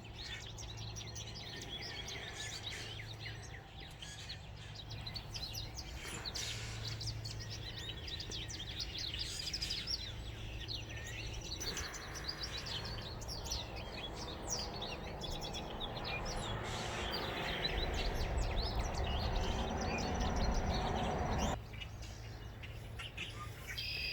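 Wild songbirds chirping and twittering in quick short calls around a yard bird feeder, over a steady low hum. A low rushing noise builds through the second half and stops abruptly a few seconds before the end.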